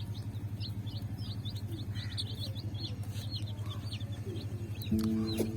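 A flock of chicks peeping constantly in short, high chirps that slide downward, over a steady low hum. Music comes in near the end.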